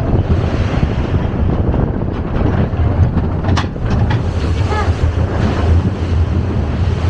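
Roller coaster train running along its track, a steady low rumble with wind rushing over the microphone.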